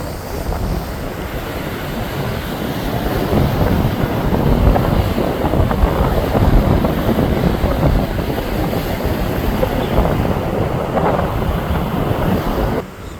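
Wind buffeting the microphone, a loud gusty rumble that swells through the middle and drops away suddenly near the end.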